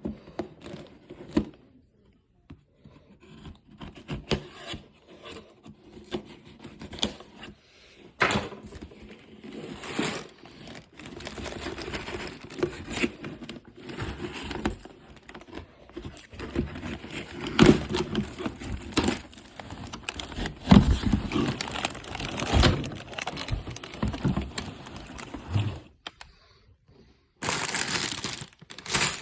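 Packaging being handled: irregular rustling, scraping and crinkling with scattered clicks, and a dense burst of crinkling near the end.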